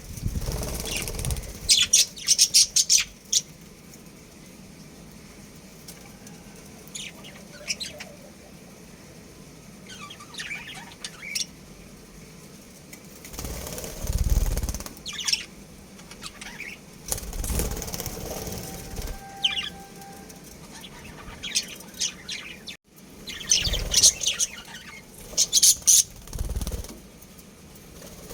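Budgerigars chirping in short scattered bursts, with several low fluttering rustles between them.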